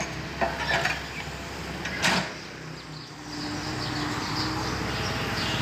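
A few light clicks and knocks of hard objects, with one louder sharp knock about two seconds in.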